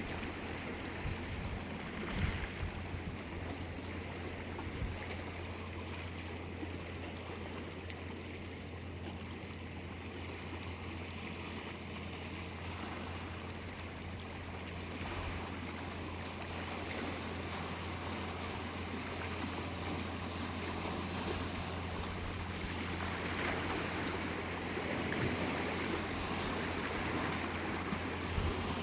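Sea waves washing onto the shore in a steady surf, the wash swelling louder in the later part.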